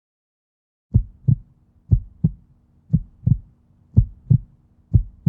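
Heartbeat sound effect: low double thumps (lub-dub) about once a second, starting about a second in, over a faint steady hum.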